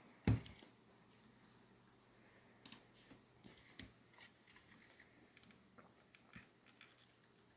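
A single thump just after the start, then faint scattered clicks and rustles of handling noise for a few seconds.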